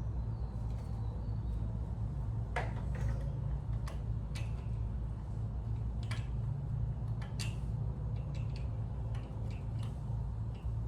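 Light clicks and knocks of small engine parts and hand tools being handled, irregular and a second or so apart, over a steady low hum.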